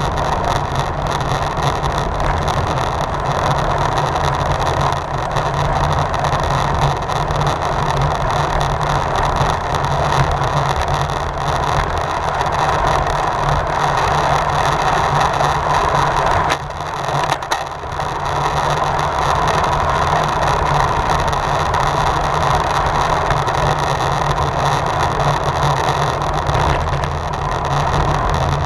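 Wind rushing over the microphone of a rider's camera on a racing bicycle at speed, a steady noise with a heavy low rumble of buffeting. It drops off briefly for about a second a little past halfway.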